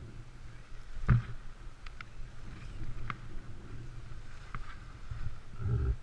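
Wind rumbling and buffeting on a GoPro's microphone, with a few sharp knocks and ticks. The loudest is a thump about a second in.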